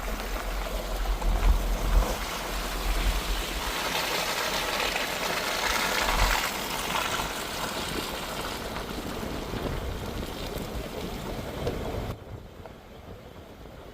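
Wind buffeting the microphone over the rumble of a pickup truck driving. It is a steady rushing noise with a heavy low rumble in the first half, and it drops off suddenly near the end.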